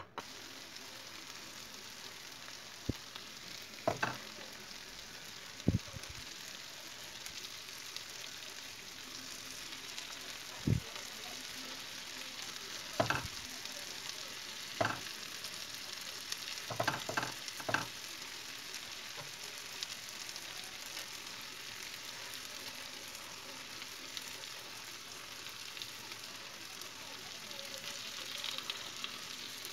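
Tomato and pepper sauce sizzling steadily in a frying pan, with a few short knocks scattered through the first two thirds, several close together.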